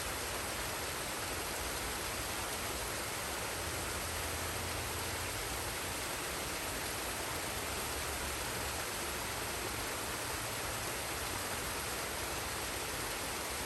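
Steady rush of a forest waterfall and stream, water falling and flowing without a break.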